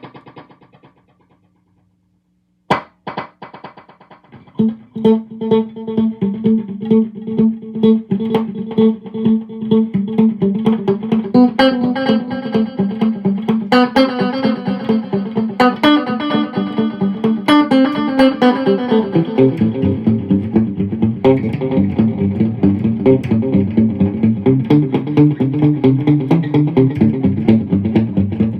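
Electric guitar played through a Visual Sound True Tone Dual Tap Delay pedal with its two delay channels cascaded into each other. A fading note and a brief pause come first. A quick picked line follows, and its delay repeats stack into a dense, evenly pulsing wash; lower notes join in later.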